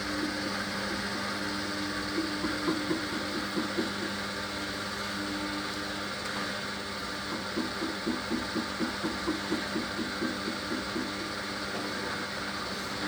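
Hoover HLW585DC washer dryer's drum motor running with a steady hum, turning the drum with a full load of washing, which gives a pulse about twice a second.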